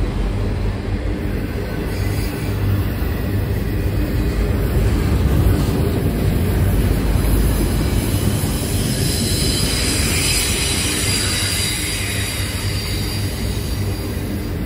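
Loaded autorack freight cars rolling past, steel wheels rumbling steadily on the rails. Partway through, a high-pitched wheel squeal rises for several seconds, then fades.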